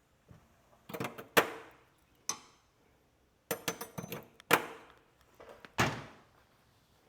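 Hand tools being put back into a tool case: a string of irregular sharp knocks and clacks, the loudest about a second and a half in.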